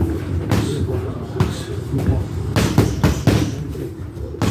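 Boxing gloves striking pads: about ten sharp punches, landing singly and in quick runs of two to four.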